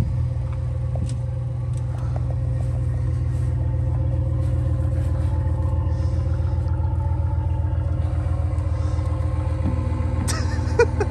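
Vehicle engine running steadily with an even, low rumble. A few short knocks come near the end.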